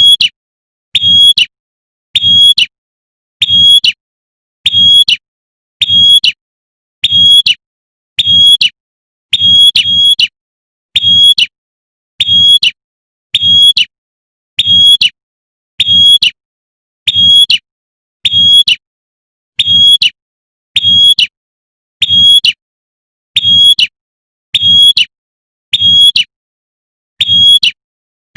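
Female prinia (prenjak) giving its 'tembakan' call, used as a lure to call in males: short, identical high notes repeating about once every 1.2 seconds, each with a low thump underneath, in an even looped rhythm.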